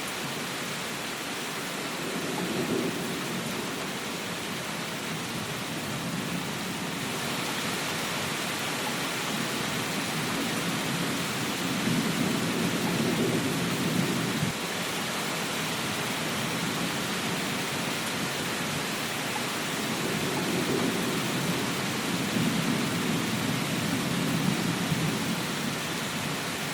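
Steady rain hiss with low rumbles of thunder rolling in three times. The middle rumble, about halfway through, cuts off abruptly.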